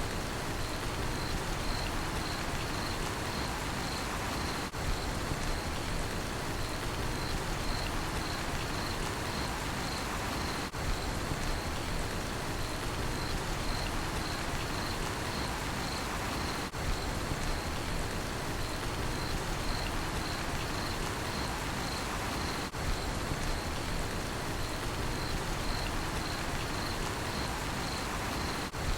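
Steady rain falling, with a cricket chirping in an even, regular pulse of one high note.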